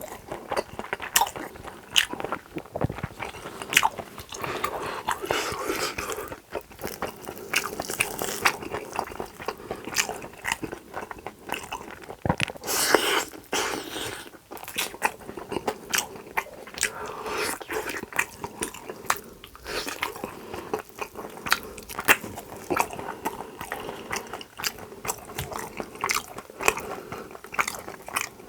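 Close-miked eating: a person chewing and biting food, with a steady run of sharp mouth clicks and smacks.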